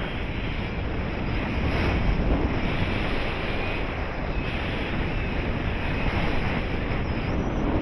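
Rushing wind buffeting the microphone in flight under a paraglider, a steady low rumbling roar that swells and eases.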